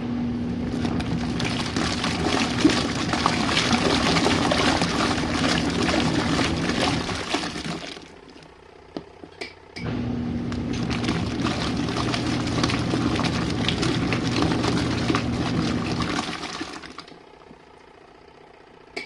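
Small portable washing machine churning its rinse water: a steady motor hum under heavy sloshing, which runs about eight seconds, stops for a moment with a couple of clicks, runs again for about seven seconds and stops once more, as the wash pulsator reverses direction.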